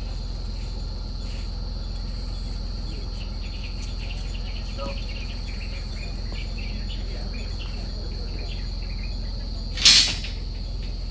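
Insects droning steadily at one high pitch over a low steady rumble, with a brief loud noisy burst near the end.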